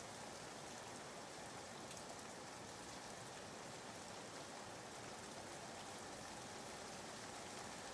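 Soft, steady rain sounds used as background white noise: an even patter of rain on a surface.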